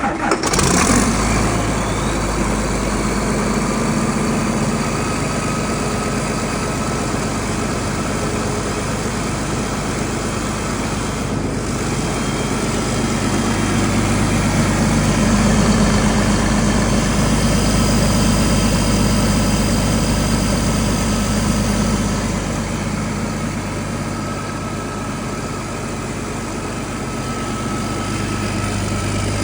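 A used engine running steadily at a constant idle, dipping slightly in loudness for a few seconds about three-quarters of the way through.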